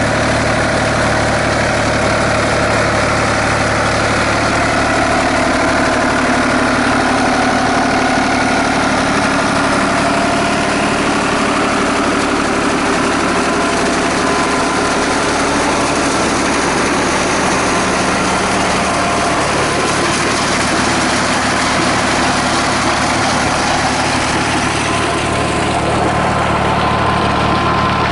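Fiat DT 45-66 tractor's 2.7-litre three-cylinder Iveco diesel running at a steady, unchanging speed.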